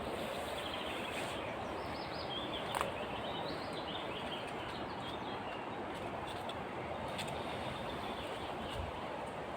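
A small bird singing a run of high chirping notes for a few seconds over a steady outdoor background hiss, with a single sharp click near the start of the song.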